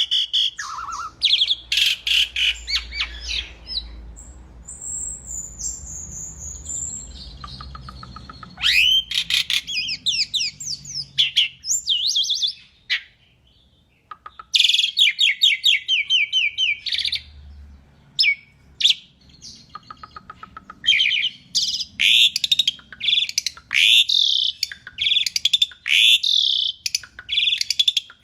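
Asian pied starling singing energetically: spells of rapid, repeated chattering notes and sliding whistles, broken by a few short pauses.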